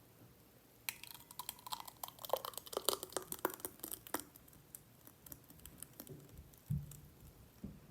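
A quick run of light clicks and taps lasting about three seconds, then a few scattered ticks and two soft low thuds near the end.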